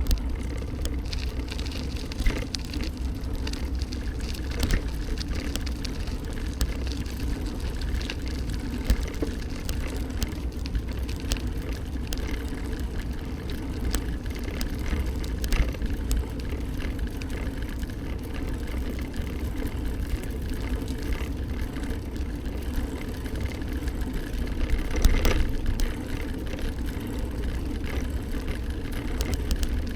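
Steady rumble of a bike in motion, with frequent small knocks and rattles and a louder stretch about 25 seconds in.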